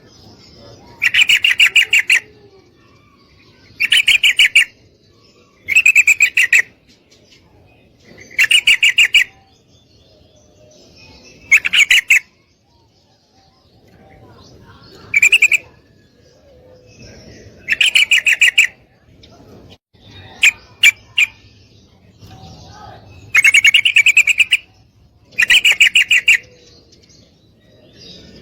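Female yellow-vented bulbul calling: short bursts of rapid chattering notes, each about a second long, repeated every two seconds or so, with a few single sharp chirps about two-thirds of the way through. It is the female's mating call to a male.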